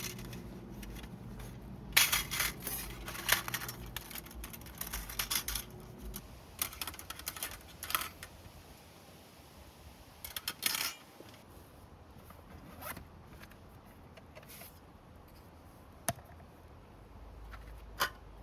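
Camping gear being handled up close: a run of rustling and scraping with small clatters, then two sharp clicks near the end.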